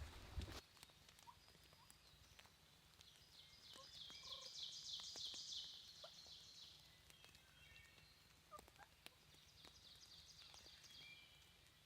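A wild turkey gobbling faintly in the distance, a rapid rattling call about four seconds in, among other faint bird calls.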